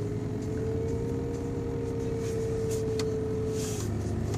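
Mercedes-Benz S430's V8 idling just after a cold start, with a steady high whine over the engine note that dips briefly near the end.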